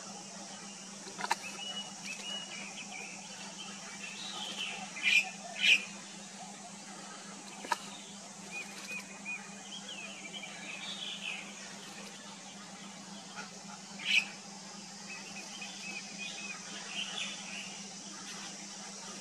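Birds chirping and calling in short phrases, with three louder, sharper calls, two about five seconds in and one about fourteen seconds in, over a steady low hum and hiss.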